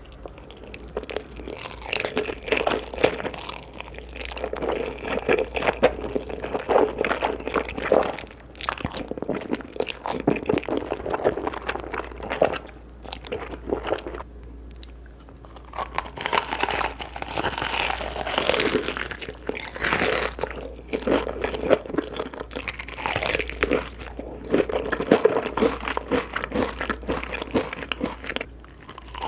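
Close-miked eating: crunchy bites and chewing, coming in runs of a few seconds with short pauses between mouthfuls.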